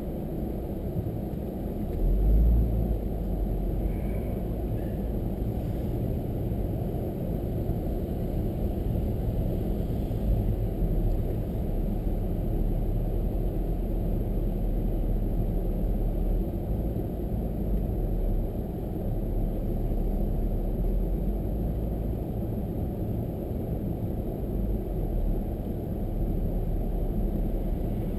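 Steady low road and engine rumble of a car being driven, heard from inside the cabin, with a brief louder low thump about two seconds in.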